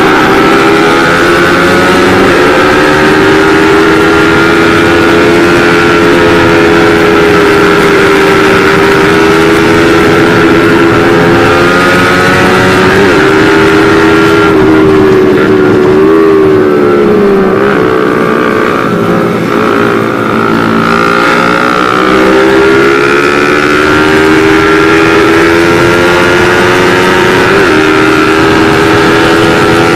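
Motorcycle engine running at high revs at road speed, heard from on the bike with wind rush. About halfway through the engine note drops, then climbs again as the bike pulls once more.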